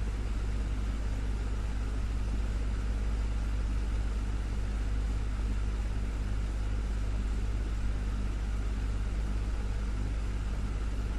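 Desktop fan running steadily: a constant low motor hum under an even rush of air, with no change in speed.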